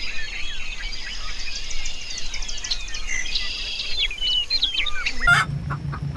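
Dense chorus of many small birds chirping and peeping at once. About five seconds in, the sound cuts to a steady low hum.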